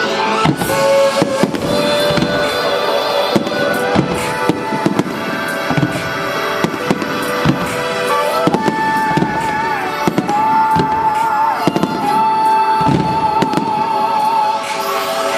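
Aerial fireworks bursting in quick succession throughout, over show music. The music carries a held, wavering high melody line through the second half.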